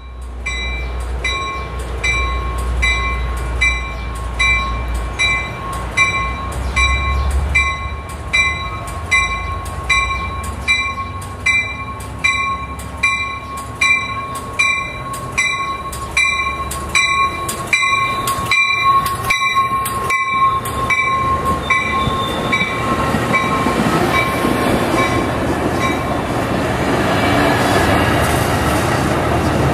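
An electronic crossing warning bell ringing about two strokes a second as a bi-level passenger train, cab car leading, approaches the station over a low rumble. The bell stops about 22 seconds in, and the train's rolling noise grows louder as the cars pull in alongside the platform.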